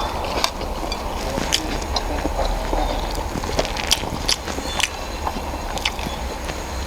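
Close-up eating sounds of someone eating spicy ramen noodles: chewing and mouth noises, with irregular sharp clicks, over a steady low hum.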